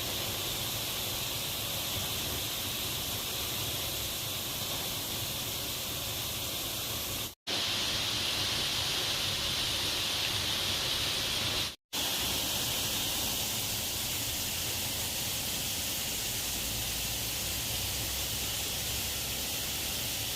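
Steady rushing of a waterfall, cut off for an instant twice, about seven and twelve seconds in.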